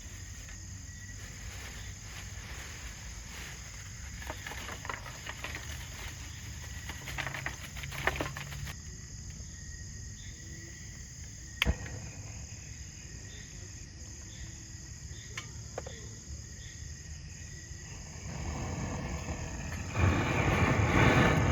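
Insects chirring steadily in a high, even drone, with a few sharp clicks. About two-thirds of the way through a rushing noise sets in and grows louder toward the end.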